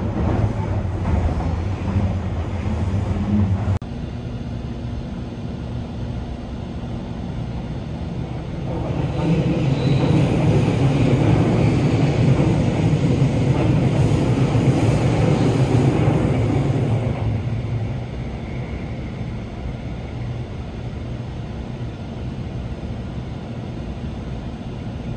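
An oncoming 885 series 'White Kamome' limited express passing a stopped 817 series train on the adjacent track, heard from inside the waiting train: a rushing rail noise that swells about eight seconds in, holds for several seconds and fades away. Before that, a steady low hum cuts off abruptly about four seconds in.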